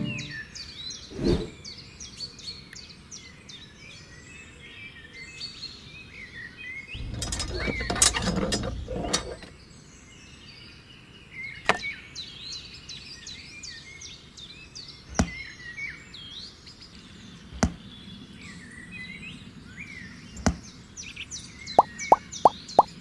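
Bird chirps and tweets run throughout as an outdoor ambience. A few single sharp knocks are heard as small model pieces such as the toy hand pump are set down, with a rustling patch about a third of the way in. Near the end comes a quick, even run of short pops as the little plastic gems appear in a row.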